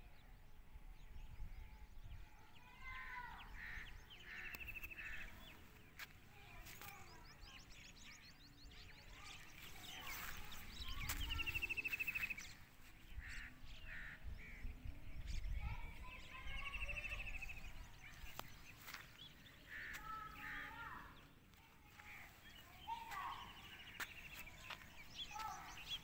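Birds calling on and off, short chirping calls, some with fast trills, repeated every few seconds. A low rumble on the microphone swells around the middle.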